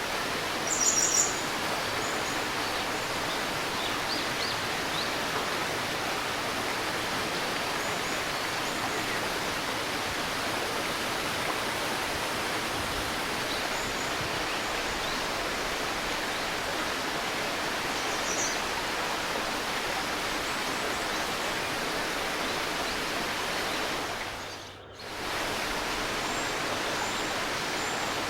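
A river's shallow stream babbling steadily, with scattered high, short bird chirps over it, the loudest about a second in and another around two-thirds through. Near the end the water sound briefly fades down and comes straight back.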